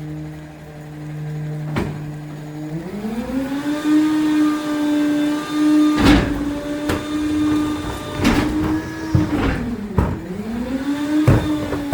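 Garbage truck's engine and hydraulic pump revving up a few seconds in to a high, steady whine as the hydraulics engage, dipping briefly and rising again near the end. Several sharp metallic knocks and bangs from the lifting and packing gear come through it.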